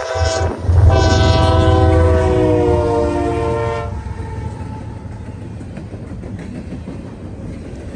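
A locomotive's multi-chime air horn sounds a short blast and then a long one of about three seconds over the heavy rumble of the engine, its pitch dropping slightly as the locomotive passes. The horn stops about four seconds in, and the train's cars roll past with a steady rumble of wheels on rail.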